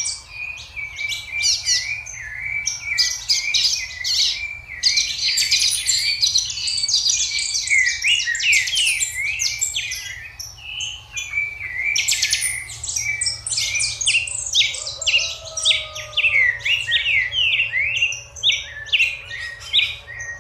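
A group of young Ganizé chickens peeping and chirping continuously, many short calls overlapping.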